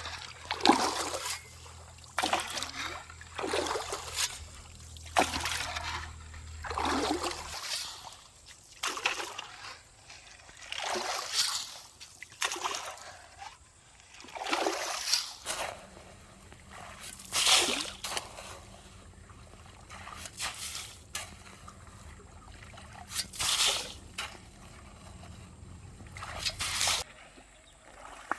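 Water sloshing and splashing in a string of irregular strokes, about one every second or two, as shallow stream water and wet sand are worked by hand or tool.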